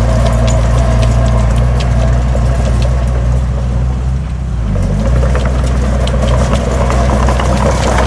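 Heavy diesel engine of earthmoving machinery running steadily, with metallic clanking and rattling over it. The engine note dips briefly about halfway through, then picks up again.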